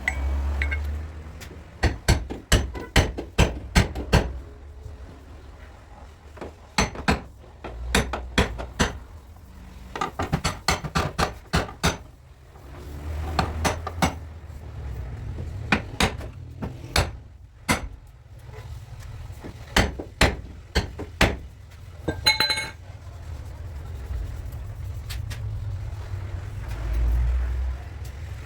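A body hammer tapping out dents in the sheet metal of a Peugeot's front bodywork: bursts of several quick blows, with pauses between the bursts.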